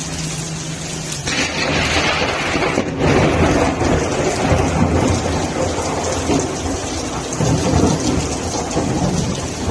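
Thunderstorm: heavy rain pouring down with low rumbling, the sound shifting abruptly about a second in and again about three seconds in. A steady low hum runs under it for the first second.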